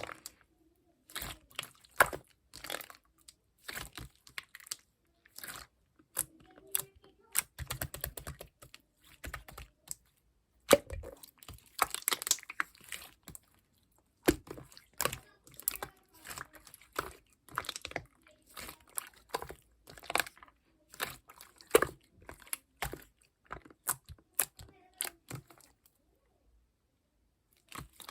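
Clear slime being squeezed, poked and pressed by hand, making bursts of sharp wet clicks and pops with short pauses between them and a brief pause near the end.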